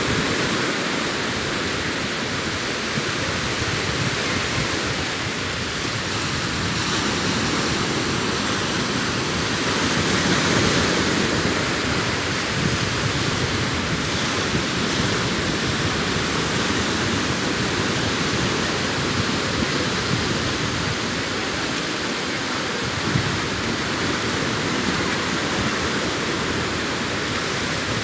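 Sea waves breaking and washing up a sandy beach, a steady rushing surf that swells a little about ten seconds in.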